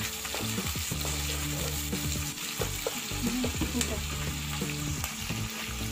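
Chopped onions sizzling in hot oil in a non-stick wok, stirred with a spatula: a steady sizzle broken by short scrapes of the spatula against the pan. A low hum comes and goes underneath.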